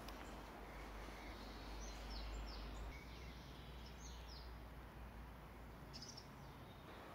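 Faint steady background hiss and low rumble, with a few short, high, falling bird chirps in small groups about two and four seconds in and again near the end.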